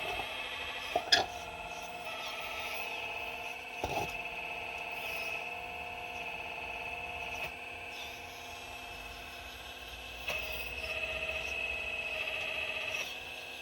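4200XL excavator's motor and hydraulics whining steadily as it works, with a sharp knock about a second in and another about four seconds in. The whine grows louder for a few seconds near the end.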